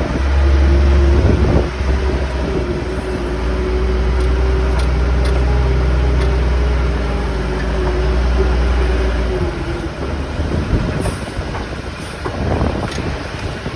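Forklift engine running with a steady low rumble and a held whine, both dropping away about nine seconds in; after that, wind buffets the microphone.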